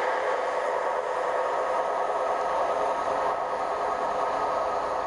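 Steady running noise of a train on the rails, heard just after it has passed through the station.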